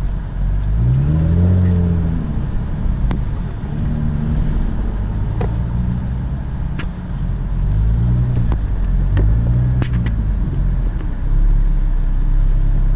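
Jaguar F-Type's engine heard from the passenger seat as the car drives, its pitch rising and falling several times as it accelerates and eases off, over a steady low rumble. A few short, sharp cracks cut through it.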